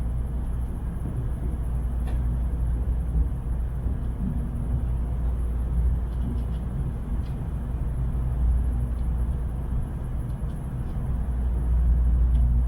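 Tokaido Shinkansen train running, heard inside the passenger cabin as a steady low rumble with a few faint clicks.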